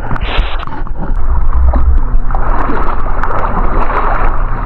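A watercraft engine running steadily, a low hum under a rushing wash of water and air noise that grows a little louder about two seconds in.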